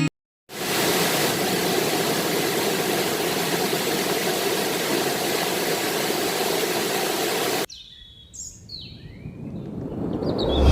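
Steady rush of a flowing jungle river, cutting off abruptly about eight seconds in. Birds then call over a quieter background, and the rush swells up again near the end.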